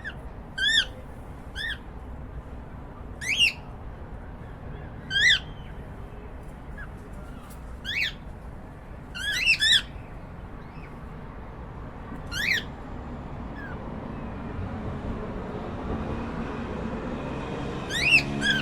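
Cockatiel giving short, shrill rising calls, about nine in all, a second to a few seconds apart, with a pair close together about halfway through. A steady background hiss grows slightly louder toward the end.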